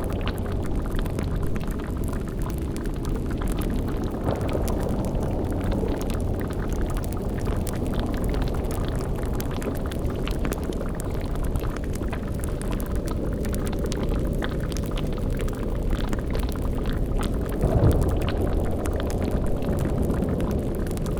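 Layered spooky ambience: a steady low rumbling drone with the bubbling of a boiling cauldron. A short, louder low rumble swells up near the end.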